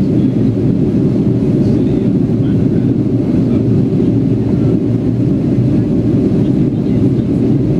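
Steady jet-engine and airflow roar heard inside the cabin of a Boeing 757 climbing after takeoff, a dense low rumble that holds even throughout.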